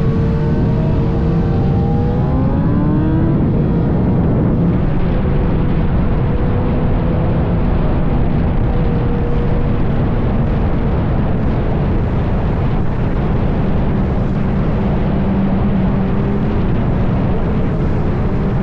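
Vehicle engines running with a steady, loud low rumble. One engine revs up, rising in pitch, about two to three seconds in.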